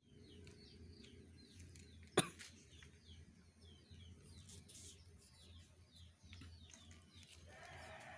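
A flock of small birds giving many short, quick chirps over a steady low hum, with one sharp knock about two seconds in.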